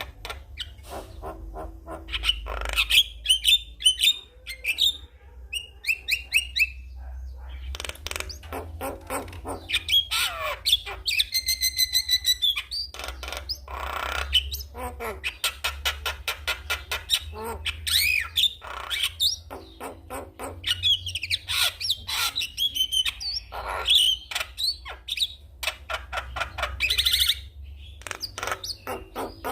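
Javan myna (jalak kebo) singing a long varied song of rapid clicks and chatter mixed with whistled phrases, with a held, pitched note about eleven seconds in.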